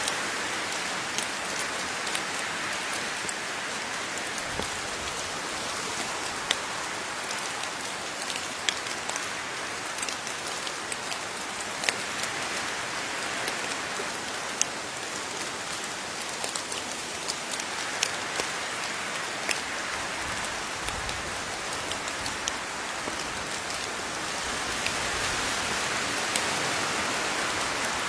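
Steady rain falling, with a continuous hiss and many individual water drops pattering sharply on a surface.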